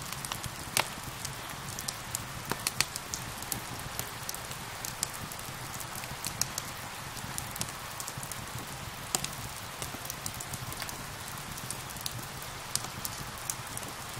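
Steady rain hissing together with a crackling fireplace fire: irregular sharp crackles and pops over the constant rain, with a few louder pops, one under a second in and another just past nine seconds.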